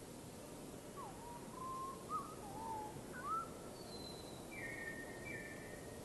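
A bird calling: a run of short whistled notes that slide up and down, then a higher falling note and two short notes in between, over a steady background hiss.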